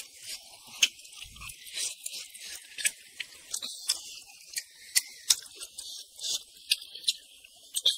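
Close-miked eating: a person chewing cooked chicken heads, with wet mouth and lip smacks and irregular sharp clicks.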